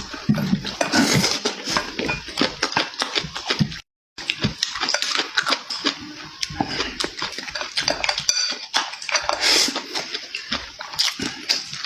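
Close-miked chewing and lip-smacking of food, a dense run of wet clicks and smacks, with a brief dropout to silence about four seconds in.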